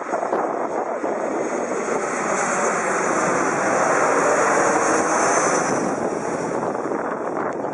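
Jet airliner passing low overhead: a steady jet engine rush with a high whine that swells to a peak about halfway through, then eases off.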